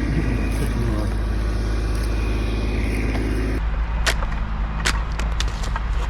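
Chainsaw idling steadily. A little over halfway the sound changes abruptly, and a few sharp knocks or cracks come over the idle.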